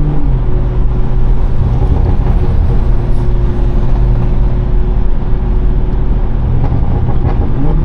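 BMW 340i's turbocharged straight-six, breathing through a catless downpipe and valved exhaust, running at a steady cruise with an even low drone that neither rises nor falls.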